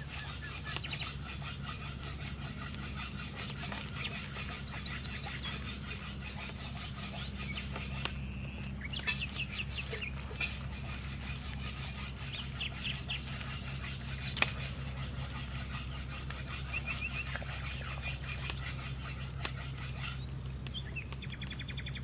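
Birds chirping and a chicken clucking over a steady low hum, with a faint high peep repeating about once a second and a few sharp clicks.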